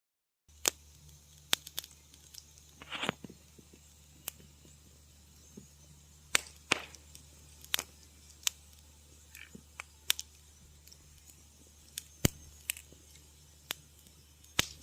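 Wood fire crackling in a fireplace: irregular sharp pops and snaps, a few of them trailing a short hiss, over a faint low hum. The sound cuts out for half a second right at the start.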